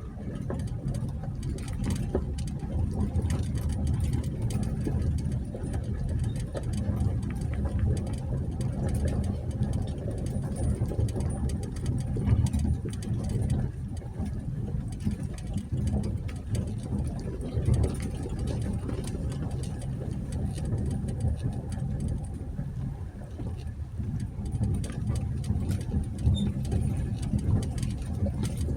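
2020 Jeep Gladiator Sport S driving along a rough dirt trail: a steady low rumble of engine and tyres, with many short clicks and knocks scattered through it.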